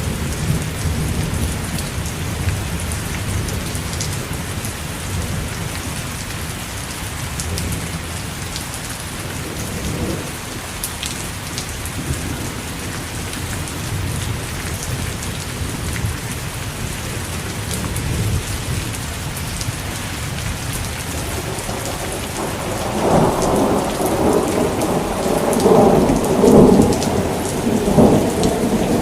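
Steady rain falling, with a low rumble of thunder under it; near the end a louder roll of thunder swells up and carries on.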